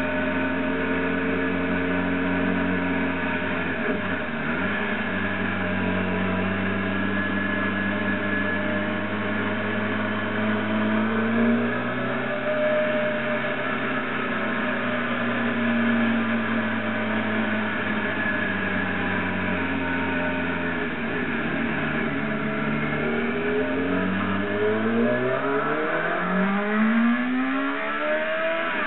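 Motorcycle engine running on the road at a fairly steady pitch for most of the stretch, then revving up sharply in the last few seconds as it accelerates, with a brief drop and climb again near the end like a gear change.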